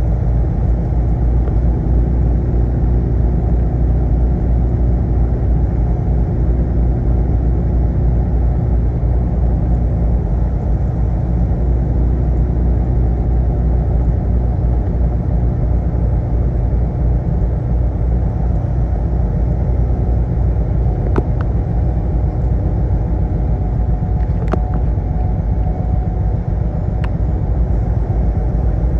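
Semi-truck driving: a steady low engine drone and road rumble, as heard from inside the cab. A few brief clicks sound in the later part.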